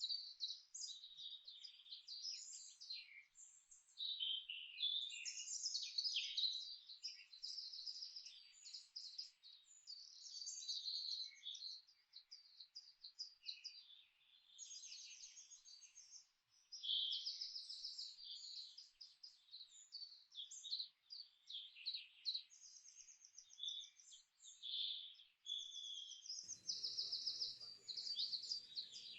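Birds chirping and trilling in many short, overlapping calls. Near the end, a low steady rumble joins in underneath.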